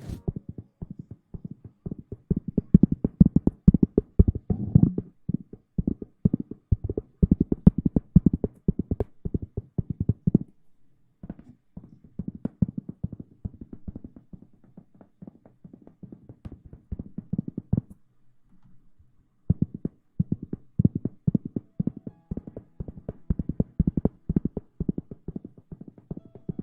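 Fingers scrubbing, scratching and tapping close against a microphone in rapid, dense strokes, the ASMR way of miming hair washing. The strokes come in three runs, with a brief pause just after ten seconds and a longer one about eighteen seconds in.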